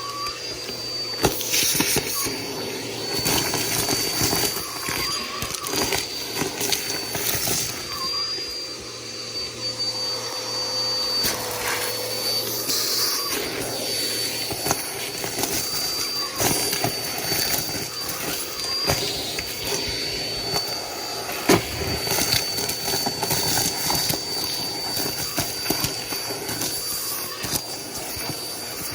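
Bissell PowerForce Helix upright vacuum cleaner running steadily, with a high whine over its motor noise. Scattered clicks and rattles run through it, with one sharp knock about two-thirds of the way through.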